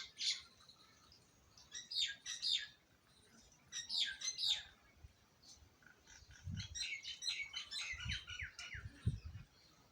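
Small birds chirping in short bursts about every two seconds, then a denser run of squabbling chirps over the second half, with a few low thumps among them.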